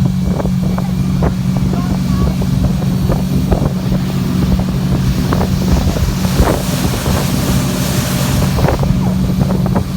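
Motorboat engine running steadily under way, with wind buffeting the microphone; the wind hiss swells for a few seconds in the second half.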